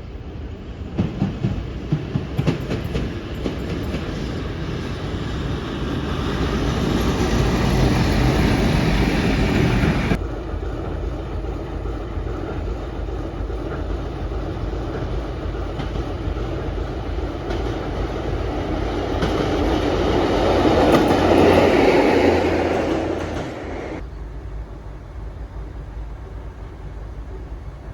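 Train passing on the line, its wheels clicking over rail joints at first. The rolling noise swells and drops off suddenly about ten seconds in, then swells again to a peak about twenty-two seconds in and falls away.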